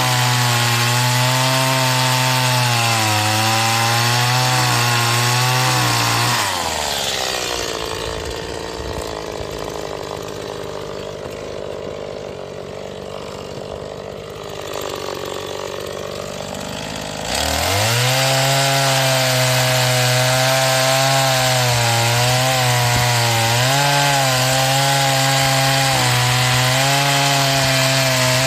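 Stihl MS 180 two-stroke chainsaw, new and being run in, cutting through firewood at high revs, its pitch wavering under the load of the cut. About six seconds in it drops back to idle, then about seventeen seconds in it revs up again for a second cut.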